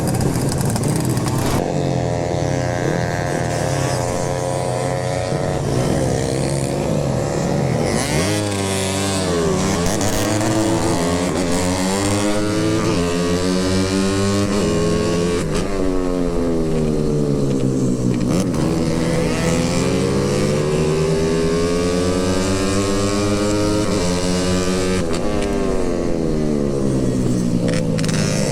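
Motorcycle engine running under way, its revs rising and falling several times as the rider opens and closes the throttle.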